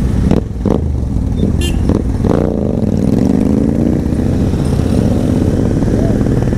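Motorcycle engine running, with a few knocks in the first couple of seconds, then its pitch rising and falling as it revs.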